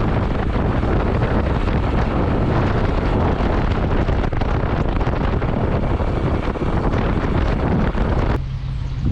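Wind buffeting the microphone while riding a motorcycle, mixed with the bike's engine and road noise. About eight seconds in the rushing cuts off suddenly, leaving a quieter steady low hum.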